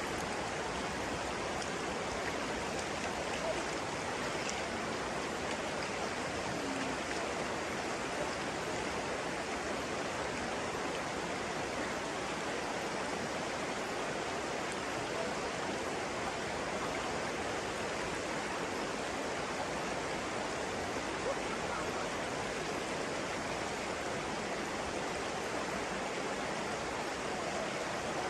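Water flowing in a steady, even rush, like a stream or small cascade.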